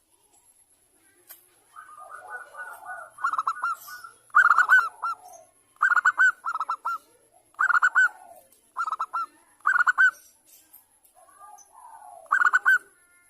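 Zebra dove (perkutut) cooing: about seven bursts of quick staccato notes with gaps between them and softer calls in the pauses, a female calling to a male, played as a lure to set caged doves singing.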